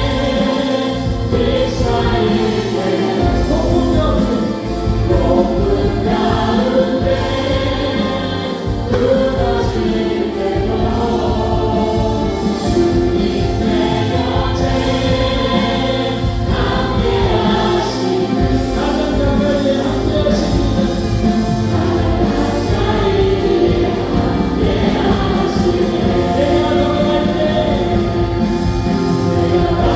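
Live contemporary worship band playing a praise song, with keyboards, synthesizer, electric guitar, bass guitar and drums under lead vocals and group singing.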